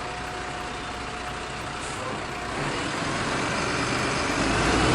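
Van sound effect: a motor vehicle's engine and road noise, growing steadily louder.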